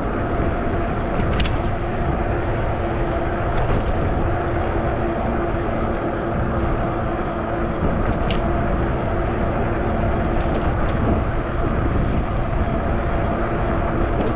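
Wind and road rumble from a Zota Zephyr 20-inch fat-tire e-bike riding along, with a steady hum and a few faint ticks.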